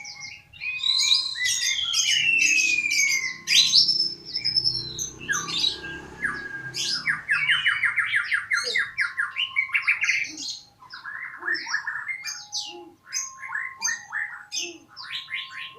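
Murai, a Copsychus songbird, singing a loud, varied song: a long falling whistle, then a sharply rising note, a fast trill, and a string of short repeated chirps.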